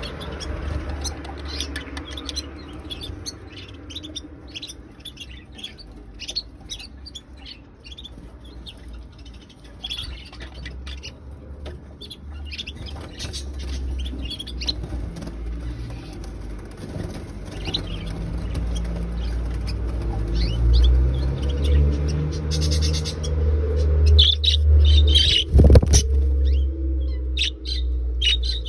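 Budgerigars chirping and twittering in many short, quick calls, busier near the end, over a steady low rumble.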